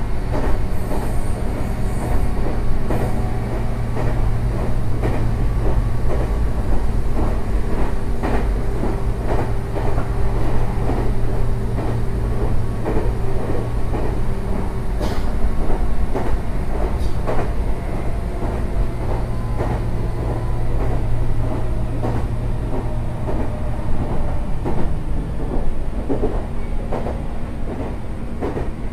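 Meitetsu 6800 series electric commuter train running: a steady rumble of wheels on the rails, with many short clicks and knocks and a faint wavering hum.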